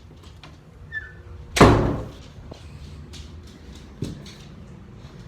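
An interior door being pushed shut, closing with a loud bang about one and a half seconds in, followed by a smaller knock a few seconds later.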